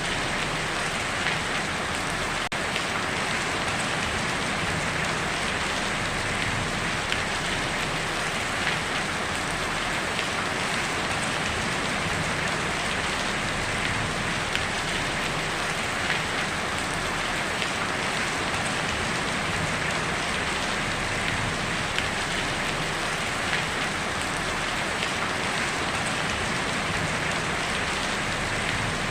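Steady heavy rain drumming on a tin roof, a dense even patter of drops with no thunder.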